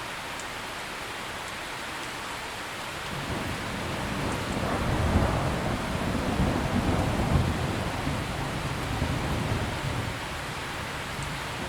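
Steady rain falling, with a long rumble of thunder that builds about three seconds in, is loudest around the middle and dies away before the end.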